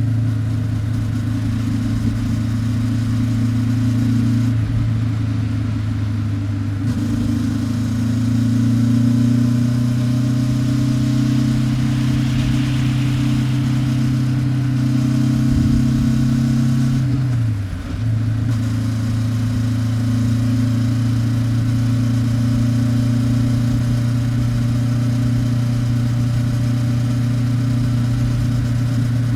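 Honda 400X's stock-muffler parallel-twin engine and exhaust running at a steady cruise. About eighteen seconds in, the note briefly drops in pitch and level, then settles back to a steady run.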